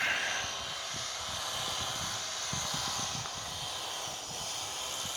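Steady outdoor background hiss with an uneven low rumble underneath, with no distinct event standing out.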